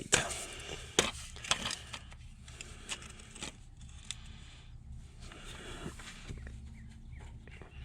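Scattered clicks and light metal knocks of hand tools at work under a forklift, getting at the oil drain plug, over a faint low hum.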